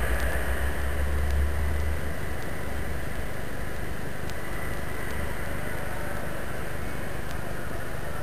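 Steady urban background noise: a low rumble with a hiss over it, stronger in the first two seconds, like distant city traffic.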